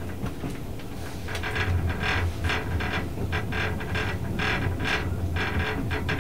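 Inside a carriage of the Twilight Express sleeper train pulling away: a steady low rumble of the wheels on the rails, with quick irregular clicking and clacking over rail joints and points that grows louder about a second in.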